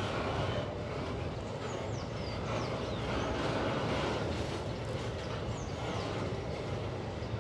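Empty freight wagons rolling past on the rails, a steady rumble of wheels and running gear.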